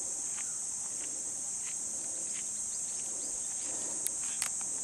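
Steady, high-pitched drone of an insect chorus (crickets or cicadas), with scattered faint ticks and two sharper clicks near the end.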